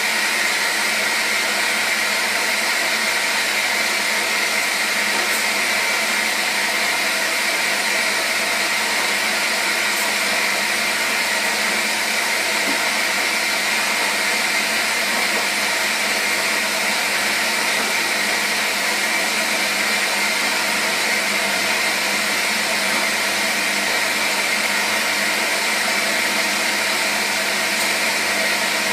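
Washing machine running with a steady, even whir.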